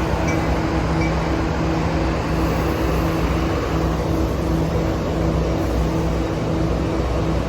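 Steady mechanical hum and rumble of a train idling at the platform, with a constant low drone and no change in pitch.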